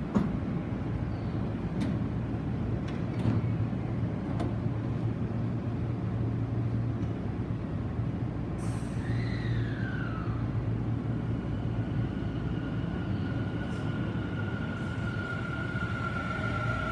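Tobu 50070-series electric train pulling out of the platform: a steady low rumble with a few faint clicks, then a short falling whistle. From about the middle, the whine of the traction motors' inverter sets in, with a lower pair of tones rising near the end as the train gathers speed.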